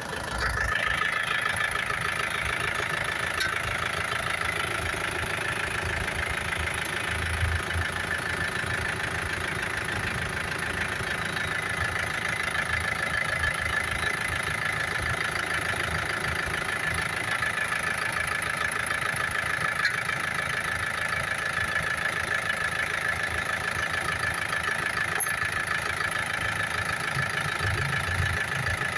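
Isuzu Sportivo's four-cylinder diesel engine idling steadily, a continuous even run with a fine rapid pulse.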